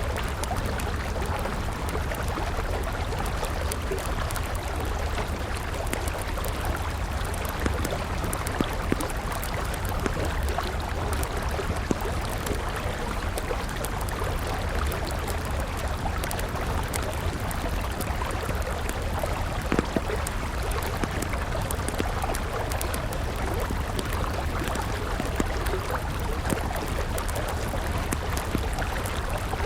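Steady rush of a flowing river, with a wood campfire crackling over it in scattered sharp pops.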